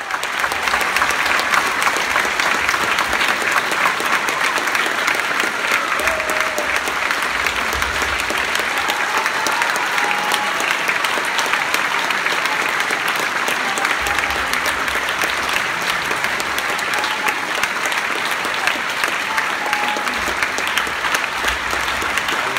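Audience applauding steadily, with a few brief voices rising above the clapping.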